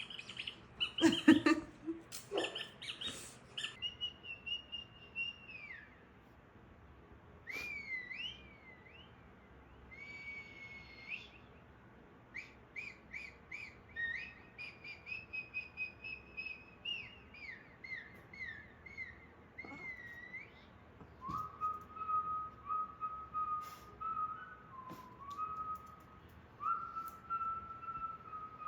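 A whistled tune: a string of clear notes, some bending up and down in pitch in the first half, then longer held notes at a lower pitch from about twenty seconds in, with light ticks between them.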